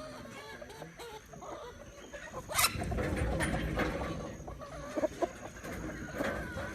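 Gamefowl chickens clucking, with a sharp knock about two and a half seconds in followed by a low rumble for a couple of seconds.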